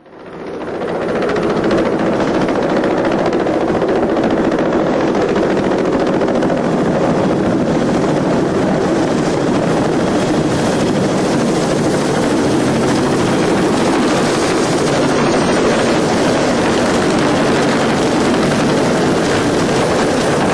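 Helicopter running loud and steady, rotor and engine noise rising out of silence within the first second or two and then holding even.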